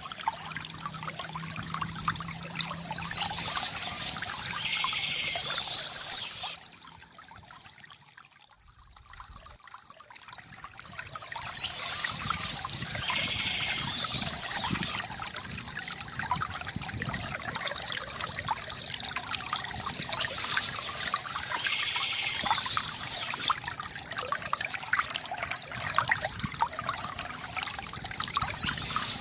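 A small stream trickling and splashing steadily, dipping briefly in level about a quarter of the way in before coming back.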